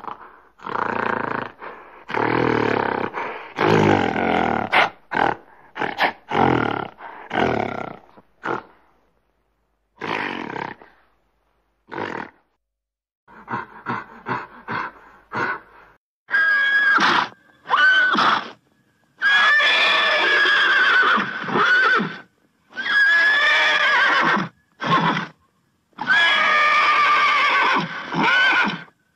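A silverback gorilla giving a string of low, rough calls, ending in a run of short quick ones. About sixteen seconds in, horses take over, neighing repeatedly in long, high whinnies that waver in pitch.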